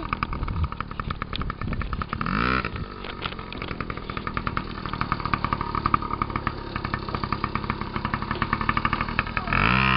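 Yamaha PW50's small two-stroke single-cylinder engine running, revving up briefly about two and a half seconds in and again near the end.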